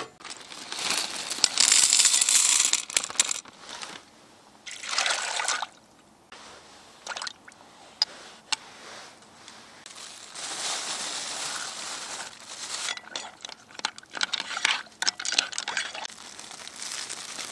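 Liquid poured or running in several short spells, with small clicks and handling knocks between them.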